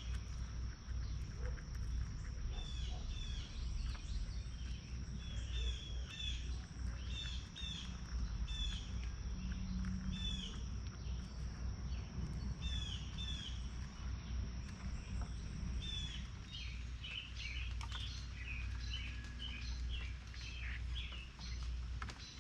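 Small songbirds calling with short, repeated chirps, often in pairs, growing denser and more varied about two-thirds of the way in, over a steady low rumble and a steady high tone.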